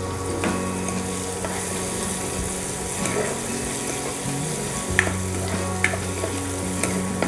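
Chopped green garlic sizzling as it fries in hot oil with cumin seeds in a nonstick kadai, stirred with a spatula. A few sharp taps of the spatula on the pan come through the sizzle.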